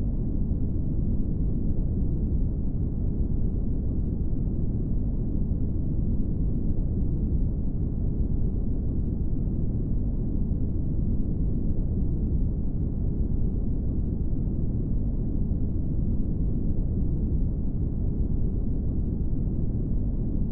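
Steady brown noise: an even, deep rumbling hiss with no changes.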